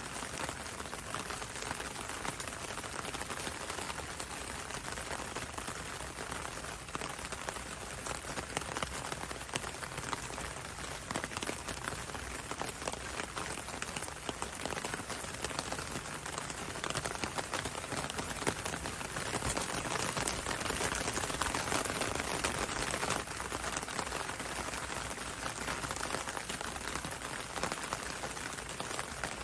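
Steady rain falling, a dense even patter with many small drop ticks on a window and road, swelling a little past the middle.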